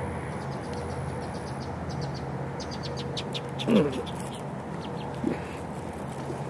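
A short, clucking bird call about three and a half seconds in, with a fainter second call a second and a half later, over a steady low hum; a run of quick high ticks comes before the first call.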